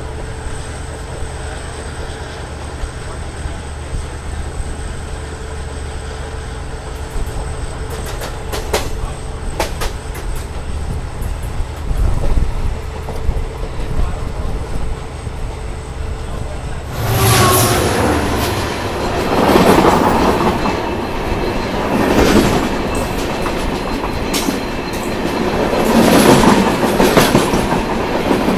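Passenger train running on the rails, heard from aboard: a steady rumble of wheels on track with a faint steady hum, which about two thirds of the way through turns suddenly into a much louder, rushing clatter with some wheel squeal that swells and fades in waves.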